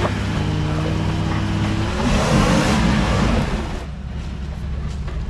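Jeep engine revving under load on an off-road climb, its pitch rising over the first two seconds, then a louder rough rush of noise for about two seconds before the engine drops back to low steady running about four seconds in. The engine is bogging down on the obstacle.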